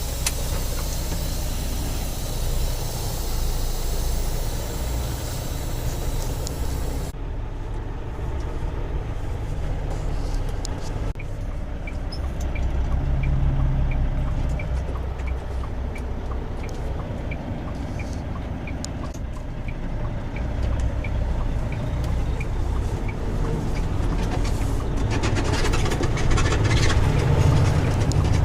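Semi truck's diesel engine running, heard from inside the cab, with a steady hiss that stops sharply about seven seconds in. Midway a turn signal clicks about twice a second for several seconds.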